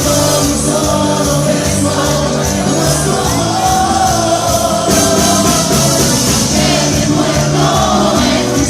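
Live band playing Latin dance music with singing, over a steady bass line and percussion.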